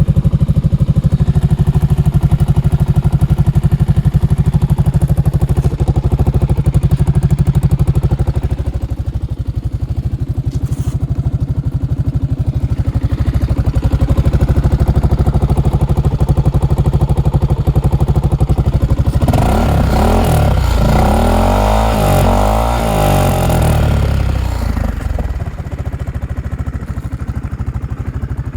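Honda Forza scooter's single-cylinder four-stroke engine idling steadily. About two-thirds of the way through it is revved several times for a few seconds, the pitch rising and falling, then it settles back to idle.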